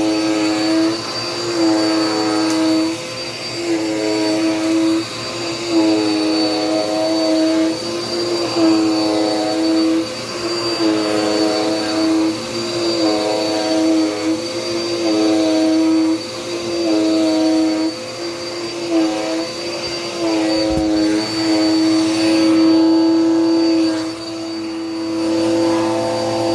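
Dirt Devil Power Max vacuum cleaner running loudly with a steady motor whine, its pitch dipping and recovering in a regular cycle about every two seconds.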